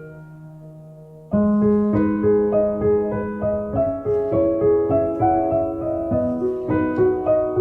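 Background piano music: a held chord fades out, then about a second in a new chord enters and a gentle run of notes continues.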